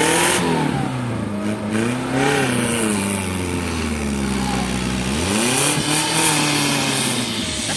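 Off-road 4x4 vehicle engine revving hard under load. The pitch climbs and falls in surges: near the start, around two seconds in, and again from about five seconds in.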